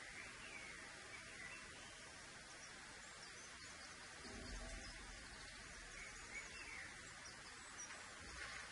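Quiet background hiss with faint, distant birds chirping now and then, and a soft low rumble about four and a half seconds in.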